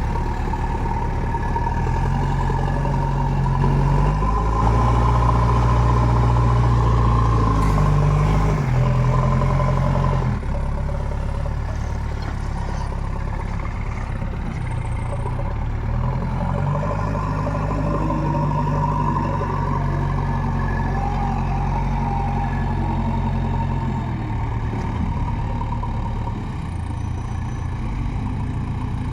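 Diesel engine of a heavy machine running steadily, its revs rising about two seconds in, falling back around ten seconds, rising again around sixteen seconds and settling near twenty-four seconds.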